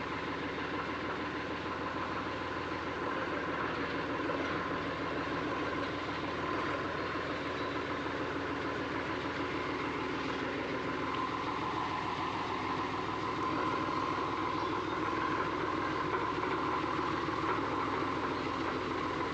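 Eicher tractor's diesel engine idling steadily, getting slightly louder about two-thirds of the way through.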